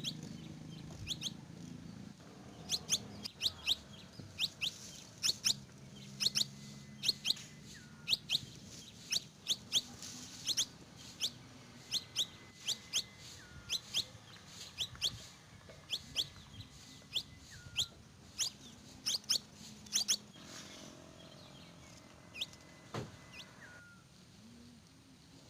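Birds chirping: short, sharp high calls repeated about twice a second for most of the stretch, thinning out near the end.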